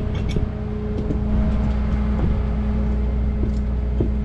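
Tow truck engine running steadily under load, with a few faint knocks, as a strap is pulled tight on a flipped camper.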